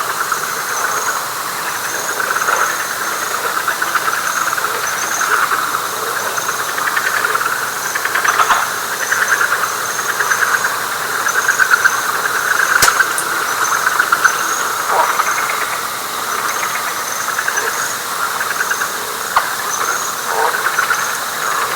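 Night chorus of frogs trilling continuously in a dense, pulsing mass, with a row of short high chirps repeating about once a second above it. There is a single sharp click about thirteen seconds in.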